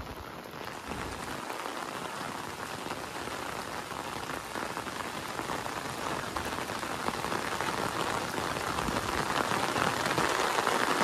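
Heavy rain pouring down on surfaces, a dense steady hiss of drops that grows gradually louder.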